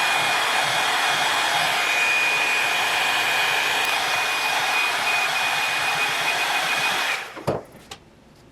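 Hand-held electric fan-blower tool running steadily with a thin high whine, then switched off about seven seconds in, followed by two short knocks.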